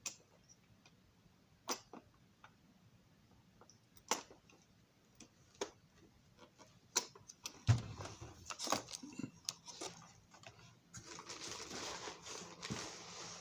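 Handling noise: scattered light clicks and taps, a low thump about eight seconds in, then rustling from about eleven seconds in.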